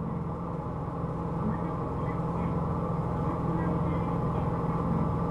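Hino Rainbow II city bus's diesel engine running steadily, heard from inside the cabin, fading in at the start, with faint short high chirps recurring every half second or so.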